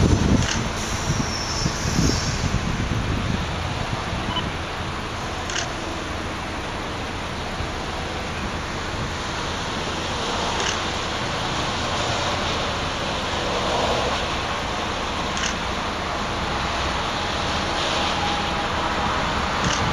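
Freight train rolling past: a steady rushing rumble of wheels on rail, heaviest in the first couple of seconds, with a few faint clicks.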